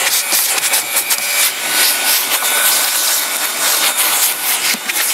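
Vacuum cleaner running loudly and steadily, with a faint motor whine and irregular scraping and rattling as the nozzle is worked over the surface and picks up debris.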